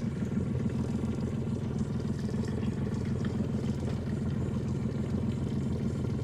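A boat engine running steadily with an even low drone.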